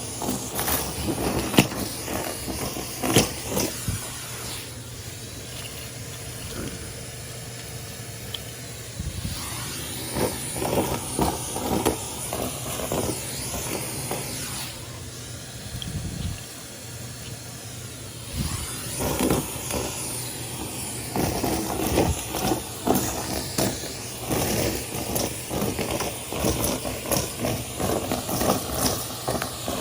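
Henry canister vacuum cleaner running, its motor and airflow a steady hiss, with bursts of crackling and rattling as debris is sucked up the hose and quieter, smoother stretches of plain suction between them.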